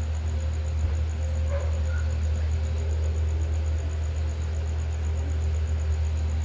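Electric fan running: a steady low hum with a faint even whir. A faint short squeak comes about a second and a half in.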